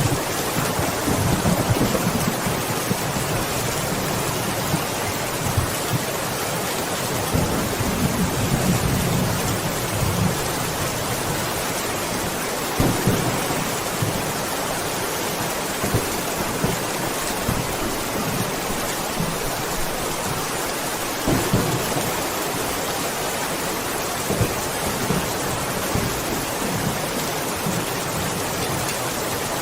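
Steady rain hissing, with thunder rumbling low at intervals and a few sharper cracks.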